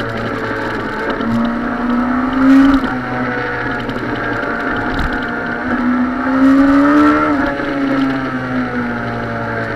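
Suzuki sport motorcycle engine heard from the rider's position, accelerating twice through bends: the revs climb from about a second in, drop back near three seconds, then climb again from about five and a half seconds and ease off after seven.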